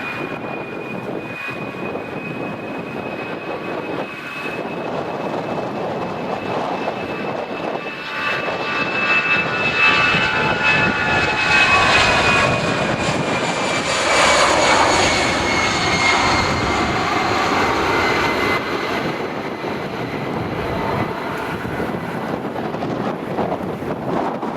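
Airliner's engines as the aircraft passes: a steady high whine that slowly falls in pitch, over engine noise that swells to its loudest about halfway through and then eases off.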